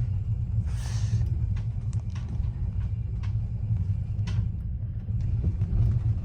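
Steady low rumble inside a passenger train carriage, with a brief rustle about a second in and scattered light clicks and taps.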